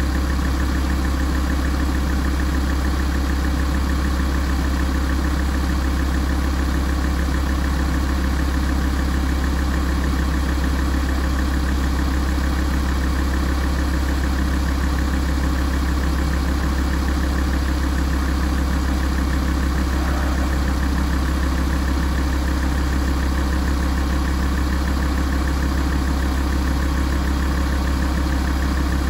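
Alfa Romeo 166's 2.4 JTDm five-cylinder turbodiesel idling steadily while warming up.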